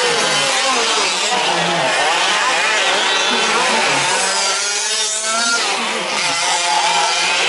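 Several 1/5-scale RC trucks' small two-stroke petrol engines racing together, their pitches rising and falling as the throttles open and close. About five seconds in, one engine climbs and falls sharply in pitch.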